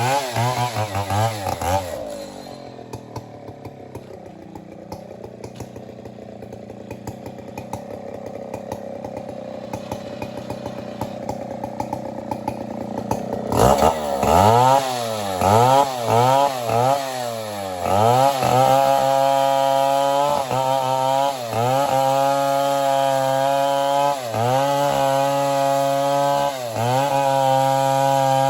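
Chainsaw engine revving, then dropping to a quieter, lower-pitched run for about ten seconds. About halfway through it is throttled back up sharply to a loud, high-pitched run, the pitch sagging briefly and recovering every few seconds.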